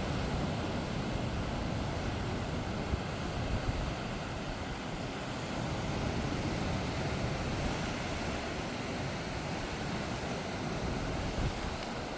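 Sea waves breaking and washing on the shore in a steady surf, with wind rumbling on the microphone.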